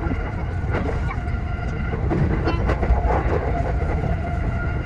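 E233 series electric train running, heard from inside the driver's cab: a steady low rumble with a faint steady whine and a few scattered clicks from the wheels on the rails.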